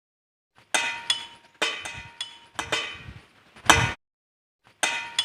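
A metal bell being struck again and again at an uneven pace, each strike ringing out bright and dying away. After a short pause about four seconds in, the same run of strikes starts again.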